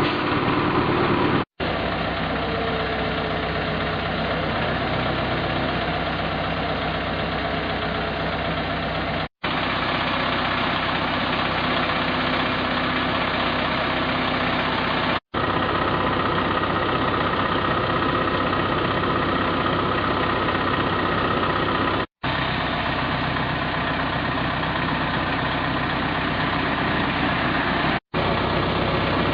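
Engines of road-works machinery running steadily, heard across several short clips joined with abrupt cuts.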